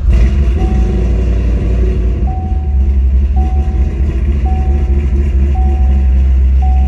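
Chevrolet Corvette's LS2 V8 with a performance camshaft and Corsa exhaust, just started and idling loudly and steadily. A dashboard warning chime sounds about once a second over the engine.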